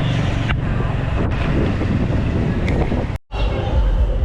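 Wind buffeting the microphone on a moving motorbike, over the motorbike running in traffic. The sound cuts out for a split second about three seconds in.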